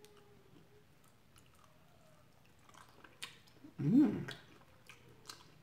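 Faint chewing and wet mouth clicks of someone eating chicken wings. About four seconds in comes one short, loud voiced sound that rises and falls in pitch.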